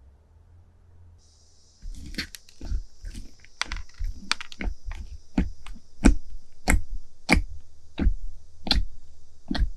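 Crunchy slime being pressed and squeezed by hand, giving sharp crackling pops about one to two a second, starting about two seconds in after a brief faint hum.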